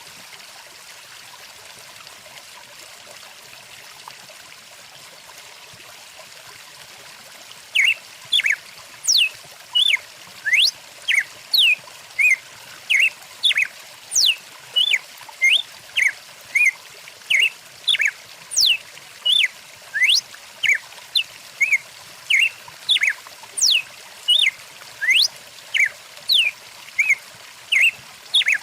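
Stream water flowing steadily, and from about eight seconds in a bird calling over it in a fast run of short chirps and quick whistled sweeps, about two a second, louder than the water.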